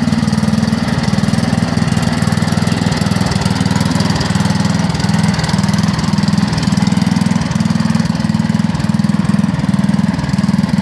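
A small tractor's engine running steadily with an even, fast chugging pulse throughout.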